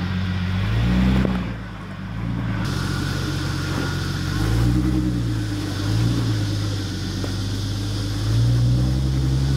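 Jeep Wrangler TJ engine revving up and down under load as it crawls up a rocky ledge, the revs rising and falling several times.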